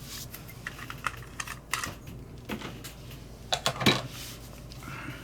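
Small hard parts clicking and tapping as they are handled and sorted through, in irregular light clicks with a louder cluster of clicks about four seconds in.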